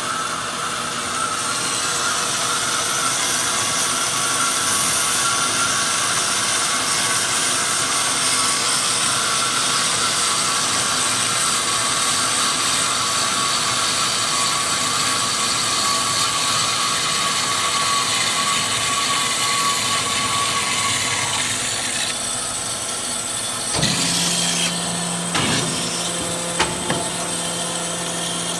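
Amada 250 band saw machine running, a steady noisy hiss with a high whine over it. About three-quarters of the way through the sound changes: a low steady hum comes in along with several sharp knocks and clanks.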